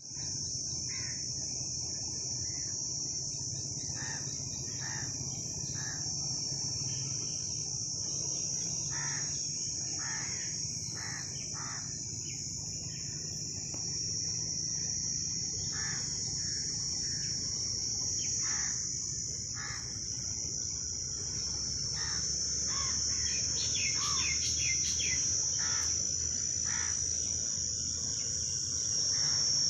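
Insects keep up a steady high-pitched drone, with short bird calls scattered over it, including a quick run of chirps a little past two-thirds of the way through.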